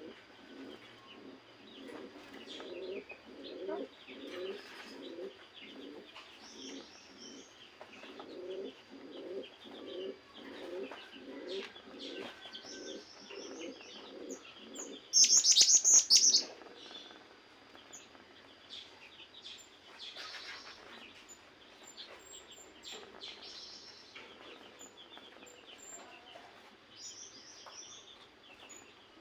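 A dove cooing in a long rhythmic run of low notes, with small birds chirping high over it. About halfway through comes a short, loud burst of high chirping.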